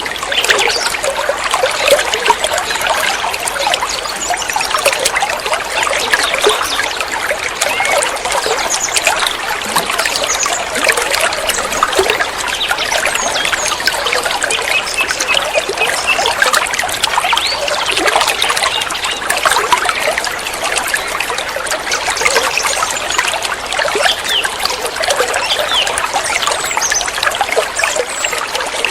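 Water trickling and babbling steadily, without pause.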